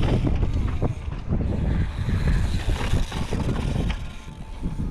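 Strong wind buffeting the microphone: a loud, uneven low rumble that rises and falls with the gusts and eases near the end.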